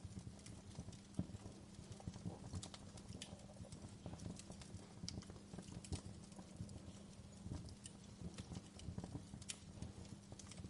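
Campfire crackling: irregular small pops and snaps of burning wood, some sharper than others, over a faint steady low hum.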